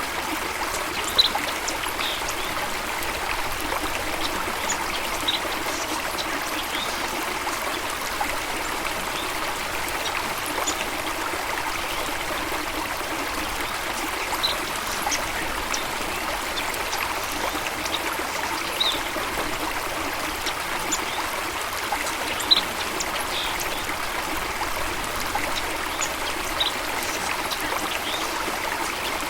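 Running water of a small stream, a steady trickling rush, with short sharp high clicks scattered every few seconds.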